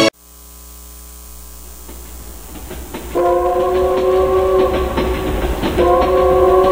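Train approaching with a low rumble that grows louder, then its horn sounds a long multi-tone blast about three seconds in and a second blast just before the end.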